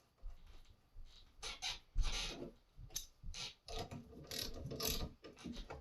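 Irregular clicks, clacks and short scrapes of metal parts being handled as a pair of loppers' greased pivot is put back together, the loudest clack about two seconds in.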